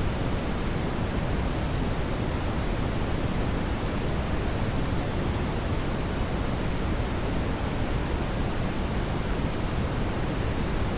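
Steady brown noise: an even, unbroken rumbling hiss, heaviest in the low end, with no change or events.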